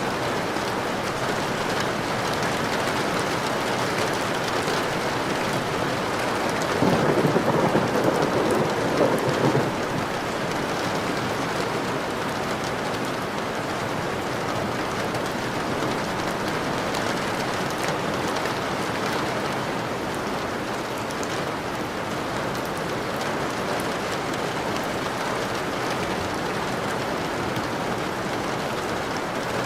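Steady rain falling, with a roll of thunder about seven seconds in that lasts around three seconds.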